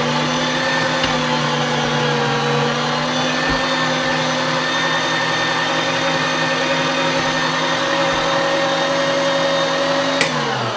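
STX Turboforce 3000 electric meat grinder's motor running steadily while bread is pushed through to clear the last of the ground meat. Near the end there is a click as it is switched off, and the motor winds down.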